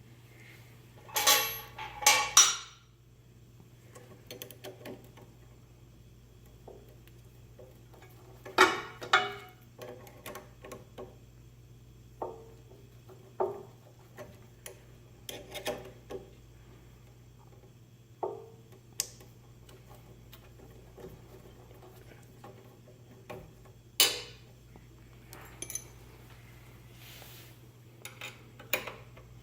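Metal hardware and hand tools clinking and knocking in separate short clatters, the loudest about a second in, around nine seconds and at twenty-four seconds, over a steady low hum.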